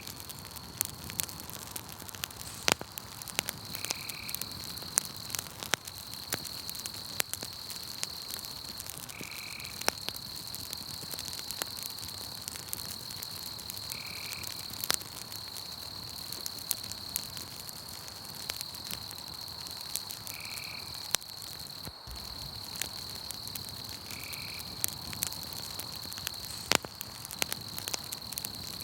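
Campfire crackling and popping, with a steady high insect trill behind it and a short high call repeating about every five seconds, five times.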